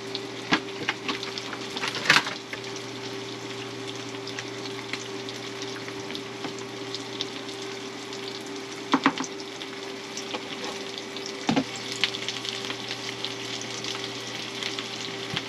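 Halved Brussels sprouts sizzling in oil and butter in a frying pan, with a few sharp clinks and knocks of stirring. A steady low hum runs underneath.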